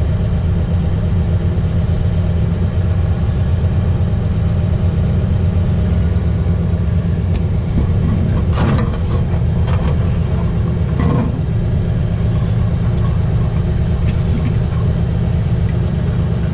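Diesel truck engine idling steadily while running a particulate-filter regeneration, a constant low hum. A few short clicks and knocks come just past the middle.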